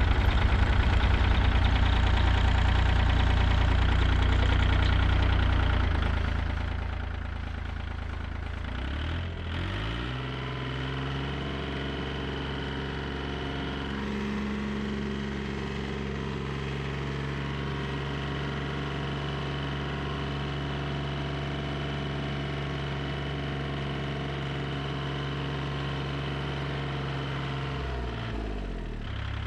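Car engine running, louder with a fast pulse for the first six seconds, then easing down to a steady idle.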